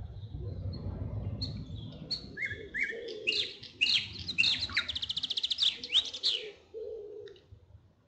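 A songbird singing one varied phrase of about five seconds: separate whistled notes, then a fast trill in the middle and a few sharp closing notes. A low rumble lies under the first couple of seconds.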